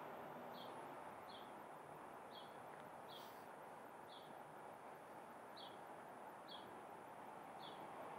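A small bird repeating a short, high, falling chirp about once a second, over a faint steady hum of city ambience.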